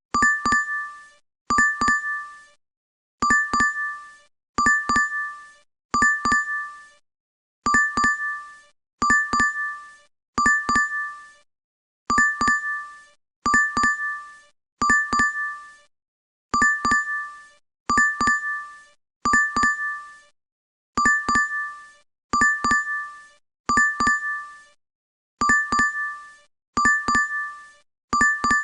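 DoorDash app notification chime playing on a loop: a short bright two-tone ding, repeated identically about every one and a half seconds.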